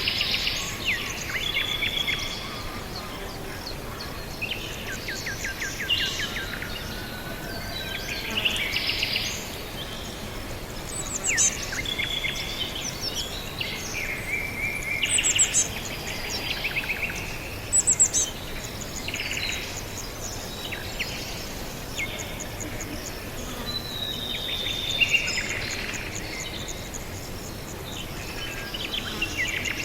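Several wild birds chirping and singing: short calls, quick trills and whistled notes, many overlapping, over a steady background hiss.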